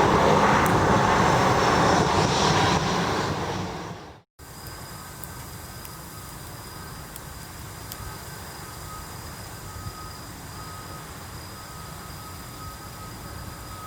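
Jet airliner passing low overhead, a loud steady rush of engine noise that fades away about four seconds in, then cuts off. After the cut, a much quieter steady background with a faint high tone.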